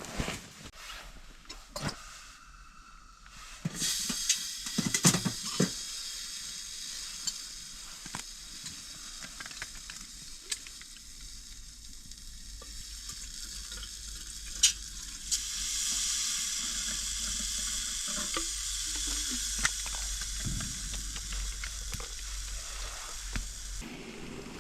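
Food sizzling in a frying pan: a steady hiss with scattered crackles that starts about four seconds in and grows louder after about fifteen seconds, with a few sharp knocks from the pan or utensils.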